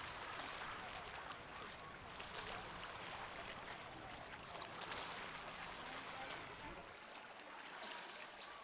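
Seaside outdoor ambience, a steady wash of water and wind with a low rumble that drops away about seven seconds in. Near the end a small bird gives a quick series of short, high, falling chirps, about three a second.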